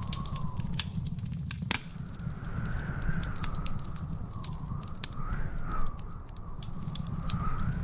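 Wood fire crackling, with frequent irregular pops and snaps over a steady low rumble. A faint wavering whistle rises and falls in the background.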